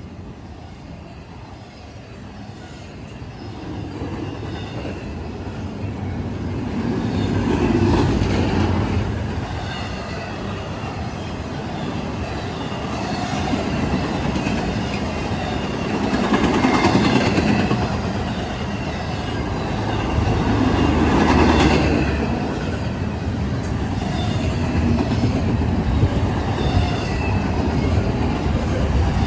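Freight train rolling past, its steel wheels clattering over the rails with some wheel squeal. It grows louder a few seconds in and swells and fades several times as the cars go by.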